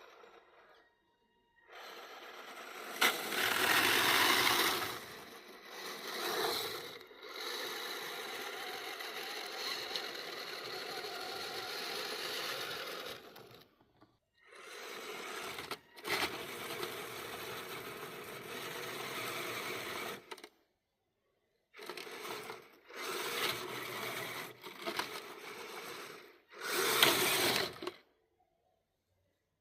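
Electric motor and gear drivetrain of a radio-controlled scale truck, whining in several runs of a few seconds each and cutting off abruptly between them.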